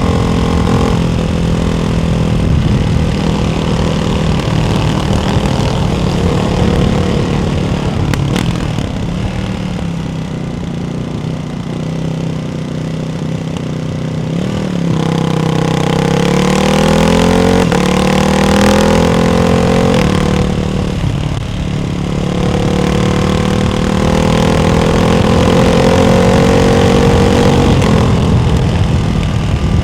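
Ducati Hypermotard 698's single-cylinder engine through a Termignoni exhaust with its baffles fitted, under way: revs fall back, then climb steadily in pitch about halfway through, drop sharply, and climb again before easing off near the end.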